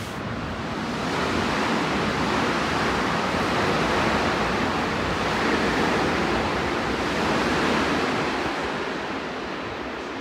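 Rushing noise of a train running past on the tracks, swelling over the first few seconds and fading toward the end.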